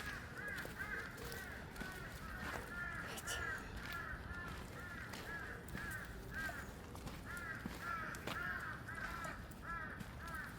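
Birds calling in a long, rapid series of short, harsh, arched calls, two or three a second.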